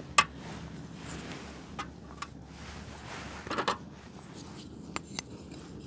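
A knife clicking and knocking against a dish while cooked tenderloin is cut up, with a few sharp clicks spread over several seconds. The loudest click comes right at the start.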